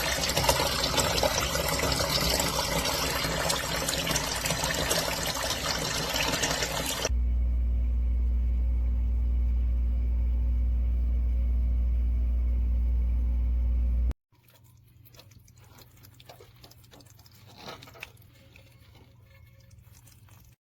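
Water rushing out of a water heater's drain through a sediment-flushing tool, a loud steady rush lasting about seven seconds. It then cuts to a loud, steady low hum, and after that to faint clicks and handling noises.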